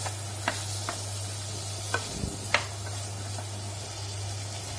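Chopped vegetables sizzling in butter in a kadai while a wooden spatula stirs them, with a few sharp taps of the spatula against the pan. A steady low hum runs underneath.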